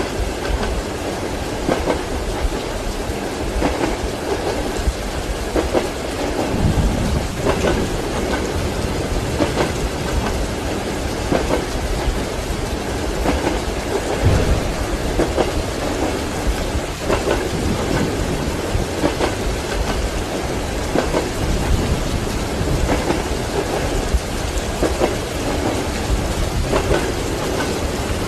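Train wheels clacking over rail joints in a recurring rhythm, under steady heavy rain, with low rolls of thunder a few seconds in and again about halfway.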